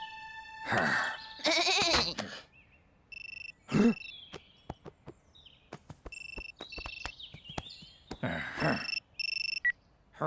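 Farm animals calling, bleat-like cries with bending pitch, three times (near the start, around four seconds in, and near the end). Short steady electronic beeps sound between the calls, with scattered sharp clicks.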